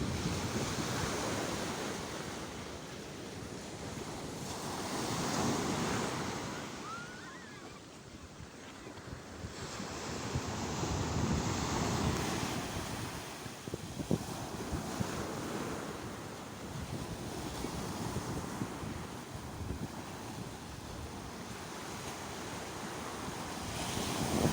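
Sea waves breaking and washing on the shore, the surf swelling and fading every few seconds, with wind buffeting the microphone.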